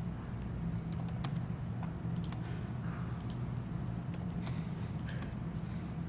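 Scattered, irregular clicks of a computer mouse and keyboard, a few a second, over a steady low hum.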